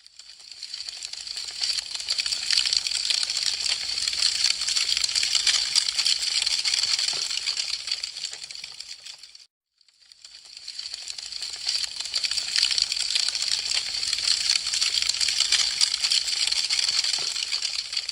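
Wood fire crackling, a dense stream of small sharp pops and snaps. It swells in from silence, cuts out briefly about halfway through, then swells back in: the same ten-second stretch repeated as a loop.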